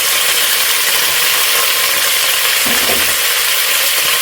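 Small pieces of chicken breast frying in very hot coconut oil: a loud, steady sizzle.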